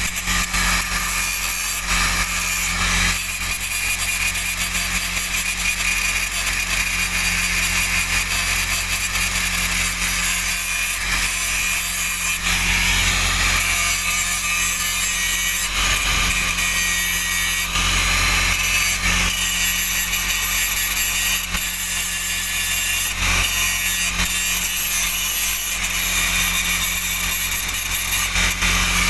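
Angle grinder grinding down the root weld pass on a large pipe repair: a continuous high-pitched grinding with a steady low hum underneath, dipping briefly a few times as the disc eases off the metal.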